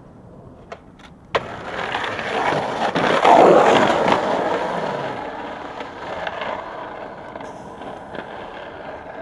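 Skateboard: two sharp clacks of the board in the first second and a half, then its wheels rolling over rough pavement, growing louder as it passes about three seconds in and fading away.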